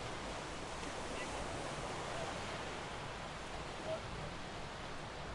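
Steady wind and water wash at a harbour, with a few faint, brief calls or voices in the background.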